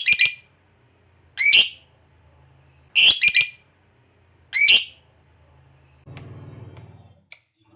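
Pet lovebird giving shrill, high chirping calls, one roughly every second and a half, then from about six seconds in a quicker run of shorter chirps over a faint low hum.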